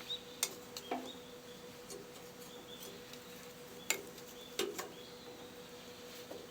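A few sharp metallic clicks and knocks as tools and parts are handled during disassembly. The loudest knock comes about four seconds in, over a faint steady hum.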